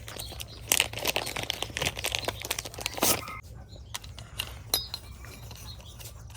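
Hands handling and fitting small parts onto the rear of a PCP air rifle: irregular clicks, light clinks and rustling.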